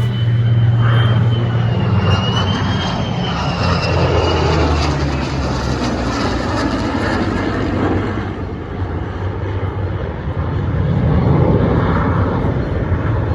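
Airplane engine noise, loud and continuous, swelling around the middle and again near the end, with a wavering high whine over the first few seconds.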